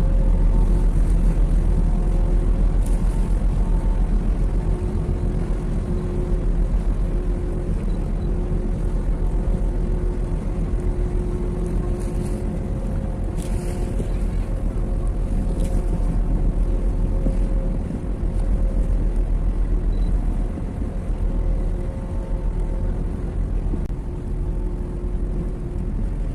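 Boat engine droning steadily, a deep rumble with a few held tones above it, with wind rumbling on the microphone.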